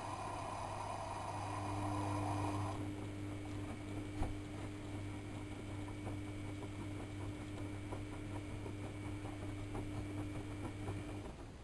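AEG Electrolux Lavamat L6461 washing machine running a 95°C boil wash: a steady motor hum and whine with soft clattering of the laundry in the drum, and one knock about four seconds in. A rushing noise cuts off about three seconds in, and the machine goes quiet shortly before the end.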